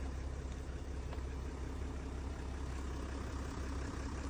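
Range Rover Sport engine idling with a steady low hum.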